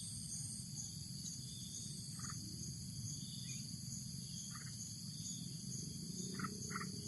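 Outdoor rural ambience: steady insect chirring, crickets or cicadas, with a high pulse repeating about twice a second. Five short calls sound over it, twice close together near the end, over a low rumble of background noise.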